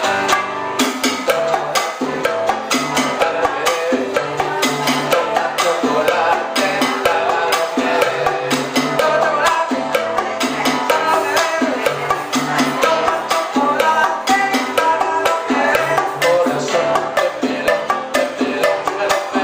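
A live band playing old-school Cuban dance music: a repeating bass line under a melody, driven by busy percussion with a steady rhythm of sharp wooden clicks.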